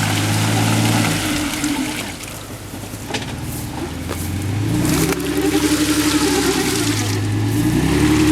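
Off-road SUV engine revving in surges as it pushes through deep mud: the engine holds high, drops off midway, then climbs again twice, over the wash and churn of mud and water at the wheels. A couple of sharp knocks come in the middle.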